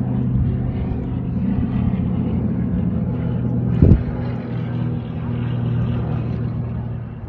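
Steady low engine drone holding one pitch, with a single thump about four seconds in.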